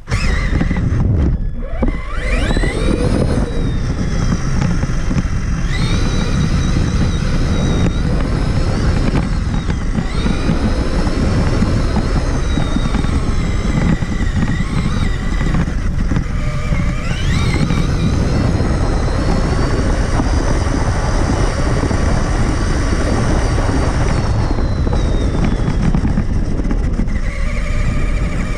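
Traxxas Summit RC truck being driven: its electric motor and geartrain whine, the pitch rising and falling as the throttle is worked, over steady rumble from the tyres and chassis on rough ground.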